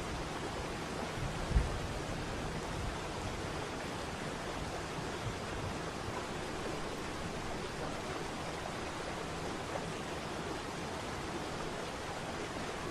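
Waterfall: steady rushing of falling water, with one brief low thump about a second and a half in.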